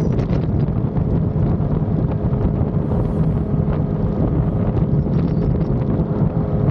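Yamaha XSR900's inline-three engine running at a steady speed under way, with wind rushing over the microphone.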